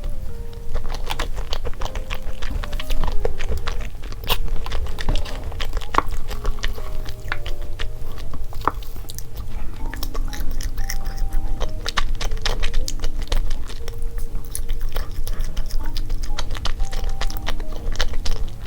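Close-miked chewing and wet mouth smacks of someone eating chocolate crepe cake, with frequent small clicks, over light, cute background music playing a simple melody.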